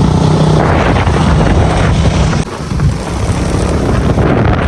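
Motorcycle engine running at speed with heavy wind buffeting the microphone; the sound dips briefly about halfway through, then carries on.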